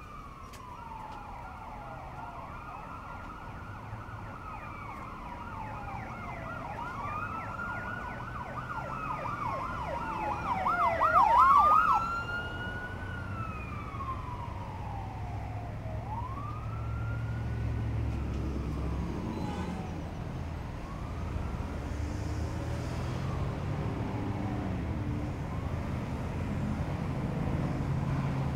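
Emergency vehicle siren passing by, wailing in slow rising and falling sweeps, then switching to a fast yelp about ten seconds in, where it is loudest, before fading away. Low traffic rumble runs underneath.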